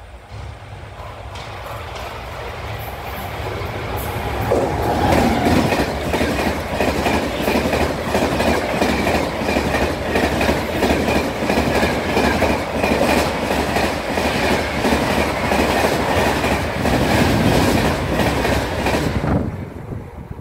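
Passenger train passing close by at about 130 km/h. A rushing noise builds as it approaches, then the wheels clatter loudly and steadily over the rail joints for about fifteen seconds. The noise drops away suddenly near the end as the last coach goes by.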